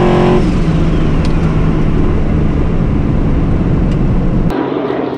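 Twin-turbo LS V8 street truck running hard down the drag strip, its engine note stepping in pitch at the start, then a loud steady rush. The sound drops away suddenly about four and a half seconds in.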